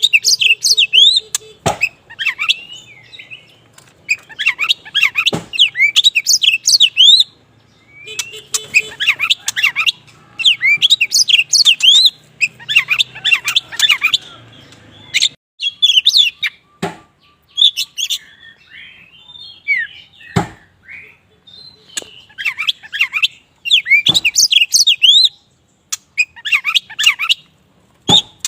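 Black magpie-robin (kacer wulung) singing in bursts of fast, varied chirping and whistled phrases with short pauses between them. Sharp knocks sound now and then between the phrases.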